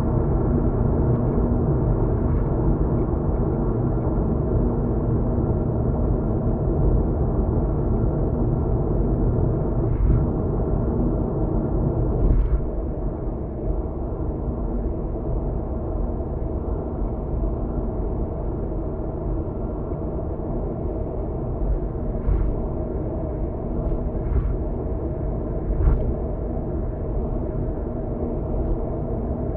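Steady road and engine rumble heard from inside a moving car on an expressway, with a few short thumps from the car passing over the road surface. The noise drops a little about twelve seconds in.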